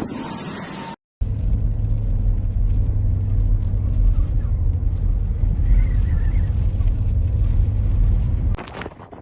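Steady low rumble of a car, beginning after a brief cut about a second in and dropping away to a quieter scene near the end.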